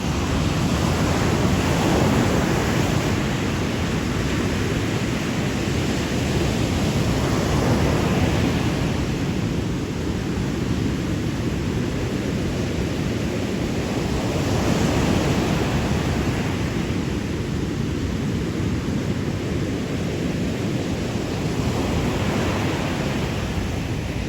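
Sea waves rolling in as a steady wash, the surge swelling and easing about every six to seven seconds.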